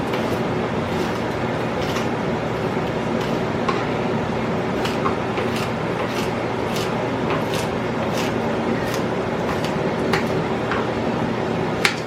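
A steady mechanical hum with several low tones, and light sharp clicks about one or two a second over it.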